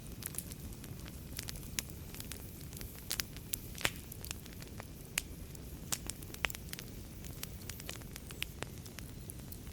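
Wood fire burning in a fireplace: a steady low rumble of flames with frequent sharp, irregular crackles and pops, the loudest about four seconds in.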